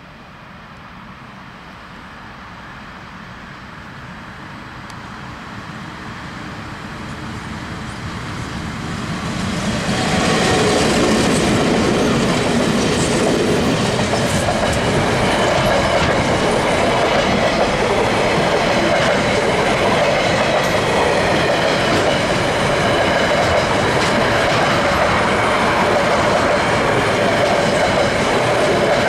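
KiwiRail DXB-class diesel-electric locomotive approaching at the head of a freight train. Its sound grows steadily louder for about ten seconds as it nears and passes, then holds loud and steady as the train's freight wagons roll past on the rails.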